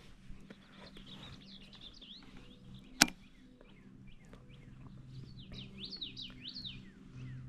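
Small birds chirping in quick rising and falling notes, busiest near the end, over a faint low steady hum. A single sharp click about three seconds in is the loudest sound.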